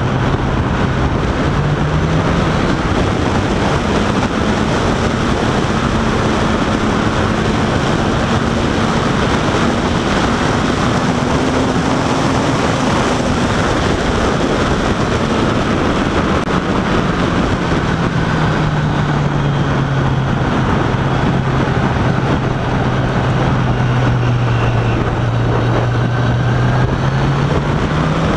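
Motorcycle engine running on the move, under heavy steady wind and road noise on the rider's microphone. The engine note rises a couple of seconds in, holds, and drops back lower about two-thirds of the way through.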